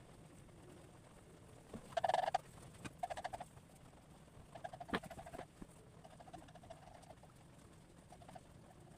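A bird calling in short pulsed bursts, four or five times, with a sharp click near the middle.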